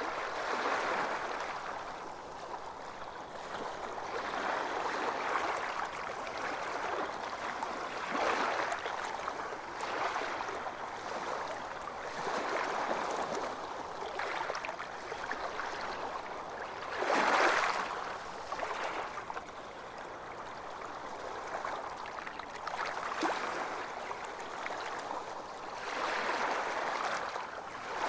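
Ocean waves breaking and washing onto a beach, swelling and fading every few seconds, with one louder wave about seventeen seconds in.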